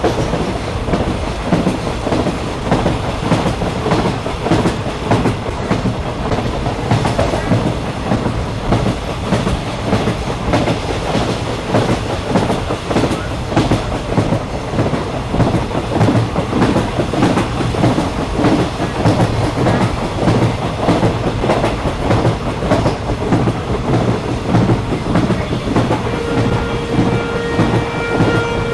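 Passenger train running on rails, heard from on board: a steady rumble with the clickety-clack of wheels over rail joints. Near the end a steady high tone joins in.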